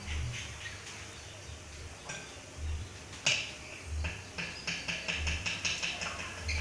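Caged songbirds making short, sharp ticking clicks: a single louder click about three seconds in, then a quick run of about five ticks a second. Dull low thumps sound about every second and a quarter underneath.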